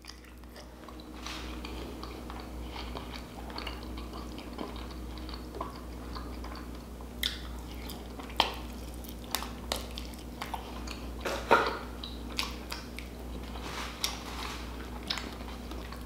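Close-miked chewing of a Wingstop chicken wing: steady wet chewing and mouth sounds, broken by scattered sharp clicks and smacks, the loudest a little past the middle.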